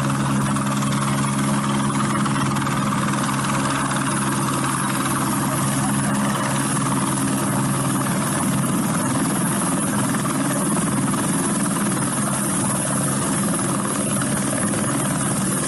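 Aircraft engines running steadily: a low droning hum over a broad rushing hiss, the hum fading about halfway through while the hiss carries on.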